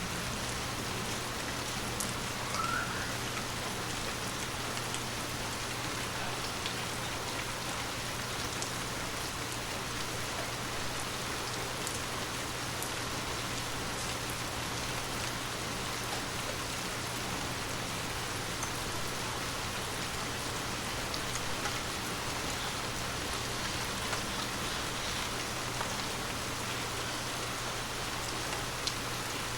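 Heavy rain falling steadily, an even hiss with scattered sharp drop ticks, over a faint steady low hum.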